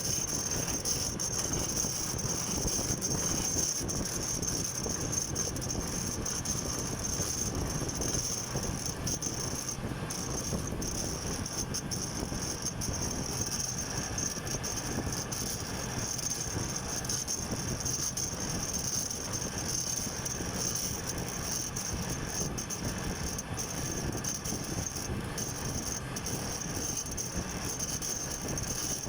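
Radial drill running and drilling into metal: a steady machine noise with a constant high whine.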